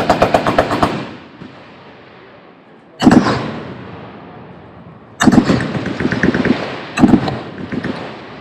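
Automatic machine-gun fire: a rapid burst that ends about a second in, a single heavy report about three seconds in that fades out slowly, then a longer, ragged stretch of rapid fire from about five seconds to near the end.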